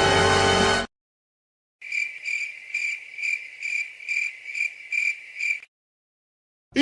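Cricket-chirping sound effect: a single cricket's high, evenly repeated chirp, about two chirps a second for roughly four seconds. A music clip cuts off just under a second in, and a short sliding sound starts right at the end.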